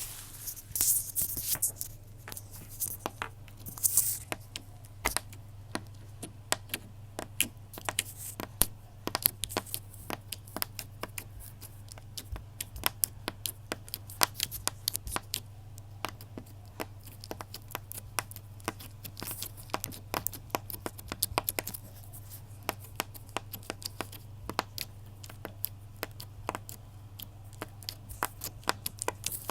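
Many small, sharp crackles and clicks in quick irregular succession, like something being torn or crinkled by hand, over a steady low hum.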